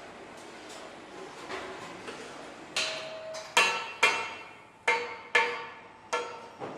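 Metal striking metal: about seven sharp clanks, each with a short ring, irregularly spaced and starting about three seconds in, over a faint steady background.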